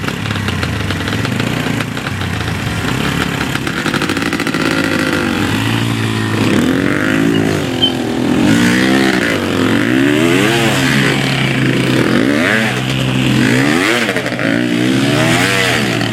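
Dirt bike engine running, then revving up and down over and over from about six seconds in, each rise and fall lasting a second or two.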